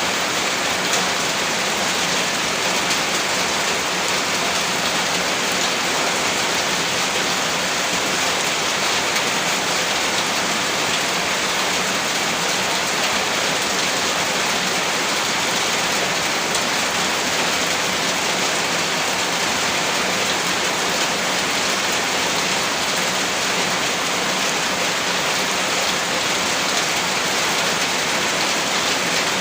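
Heavy rain falling on a roof, a steady even hiss of drops.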